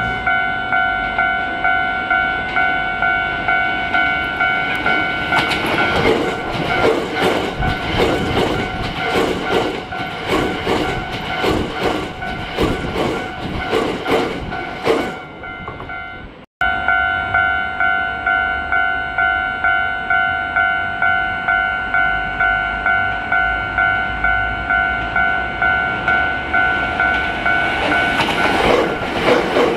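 Level-crossing warning bell ringing in a steady, regular ding-ding rhythm while a train passes, its wheels clacking rhythmically over the rail joints for about ten seconds. After a sudden cut the bell rings on, and another train approaches near the end.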